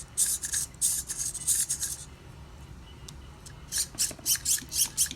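Small hobby servos in a partly assembled 3D-printed GLaDOS model moving in short, hissy whirs, a quick series in the first two seconds, a pause, then another series from about three and a half seconds in, during a servo test.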